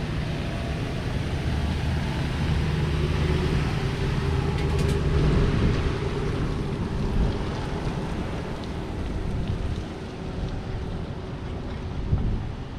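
An engine running at a low, steady pitch, dying away about halfway through.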